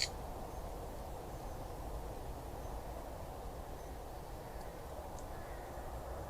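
Steady low hiss and hum of outdoor ambience picked up by a trail camera's microphone, with a sharp click right at the start and a couple of faint high ticks around five seconds in.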